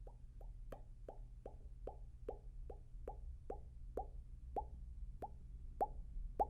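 ASMR mouth sounds close to the microphone: a steady run of wet mouth pops, about two to three a second, each a short click with a quick falling pitch.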